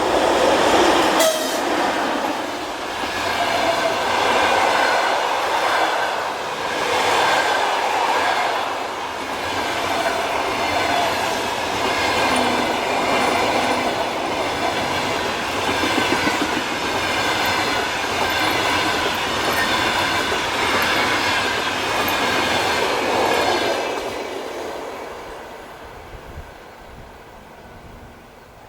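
Electric train passing close by: steady clatter of wheels over the rail joints with a high, steady ringing over it, and a sharp click about a second in. The sound drops away from about 24 seconds in as the train recedes.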